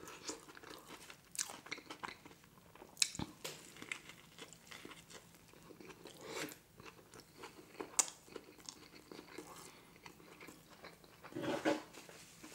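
Close-miked biting and chewing of a McDonald's Grand Mac burger: soft wet mouth sounds with scattered sharp clicks and crunches.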